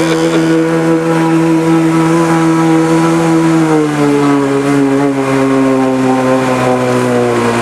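Engine of a Subaru-based amphibious car running steadily under power, then its pitch drops about four seconds in and keeps easing down as it slows.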